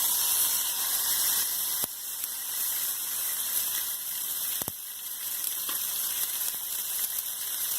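Rump steak sizzling in a very hot pan just after being laid in: a steady hiss that eases a little after about two seconds, with a couple of faint ticks.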